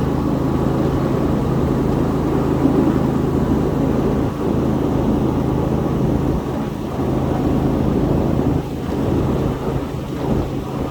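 A 7.5-inch gauge ride-on miniature train rolls along the track, heard from aboard as a steady, loud rumble of the wheels on the rails.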